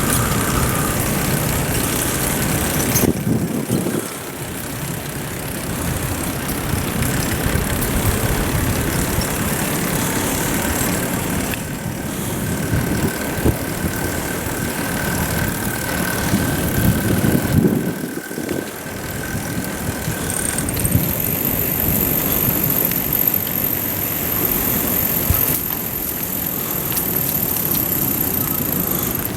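Wind and road rumble on a GoPro carried on a moving bicycle, a steady rushing noise that dips briefly twice.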